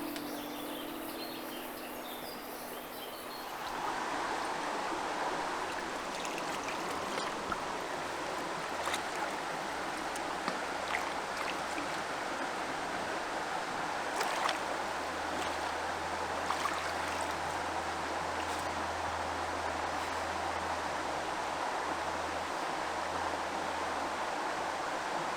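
River water rushing over stones, a steady noise that grows louder about three and a half seconds in and then holds, with a few faint ticks.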